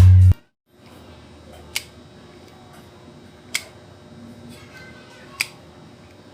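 A music track cuts off right at the start. Then three sharp, single clicks, evenly spaced about 1.8 seconds apart, sound over faint steady hiss.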